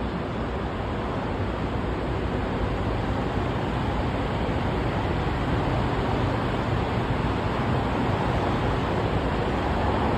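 Steady rushing noise with a low rumble underneath, unbroken and even throughout.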